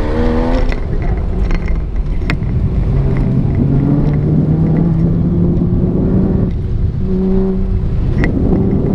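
Porsche sports car engine heard from inside the cabin during an autocross run, its pitch climbing under throttle and falling back several times with lifts and gear changes, with a low steady stretch in the middle. A few sharp clicks sound over it.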